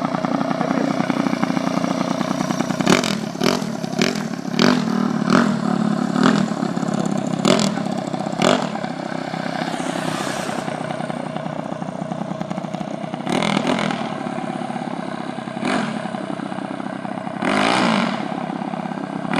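Predator 212cc Hemi minibike engine running steadily, with a string of sharp clattering knocks about once a second for several seconds, followed by a few brief noisy swells.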